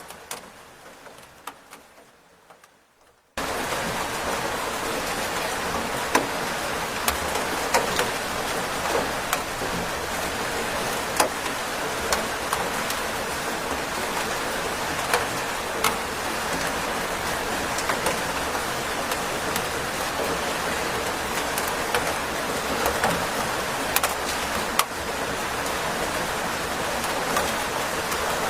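Steady rain falling, with individual drops striking a surface as sharp scattered taps. It fades down at the start, then cuts back in abruptly at full strength about three seconds in.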